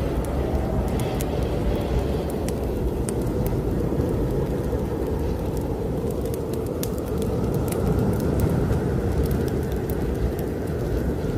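Strong snowstorm wind blowing in a steady low rumble that swells a little in the second half, with a wood fire crackling over it in scattered sharp pops.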